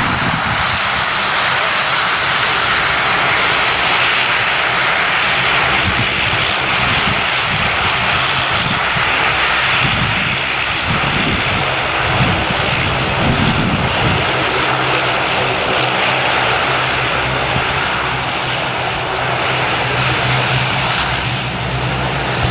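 Bombardier Dash 8 Q400 turboprop at takeoff power: its two Pratt & Whitney PW150A engines and six-blade propellers make a loud, steady noise with a low propeller hum underneath.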